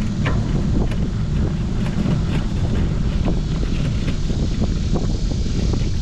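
Wind rumbling steadily on the microphone of a camera carried on a moving bicycle, with small clicks and rattles scattered throughout.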